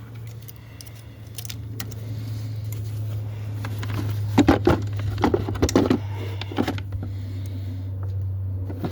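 Metal engine parts clinking and knocking as they are handled and lifted out, a run of sharp clicks about four to seven seconds in, over a steady low hum that grows louder a second or two in.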